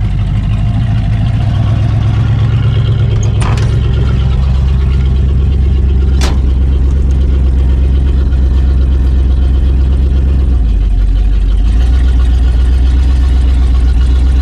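1980 Jeep J10 truck engine running steadily while the freshly built truck is driven on temporary fuel, not yet tuned. Its low note shifts about ten seconds in, and two short sharp knocks come at about three and a half and six seconds in.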